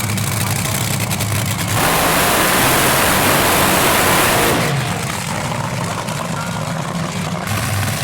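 Drag racing car engines running, with a loud rushing noise over them from about two seconds in until about four and a half seconds, and again near the end.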